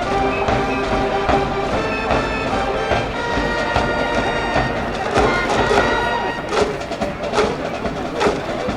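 School cheering band playing a baseball cheer song from the stands: held brass and wind melody notes over a steady drumbeat.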